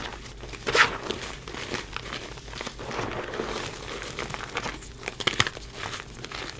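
Reformed gym chalk being crumbled and crushed by hand: dry, crisp crunching and crackling with irregular snaps, the loudest about a second in and again near the end.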